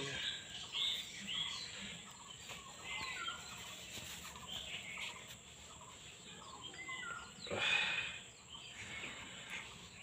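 Small birds chirping: short, squeaky calls that come again and again, with one louder brief burst of noise about three-quarters of the way through.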